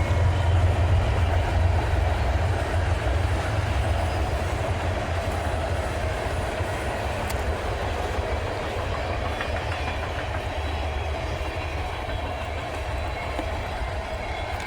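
Freight train passing, led by Norfolk Southern diesel locomotives. A heavy low rumble slowly eases as the train's cars roll by on the rails.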